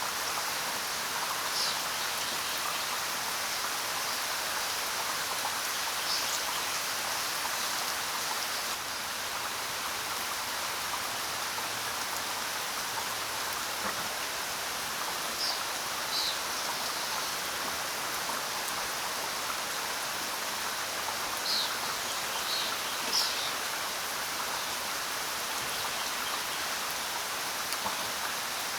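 Steady rain falling, with a few short, high bird chirps scattered over it.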